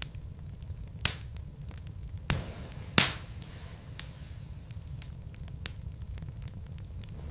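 Wood fire burning in a fireplace: a steady low rumble with sharp crackles and pops from the burning logs, the loudest about three seconds in.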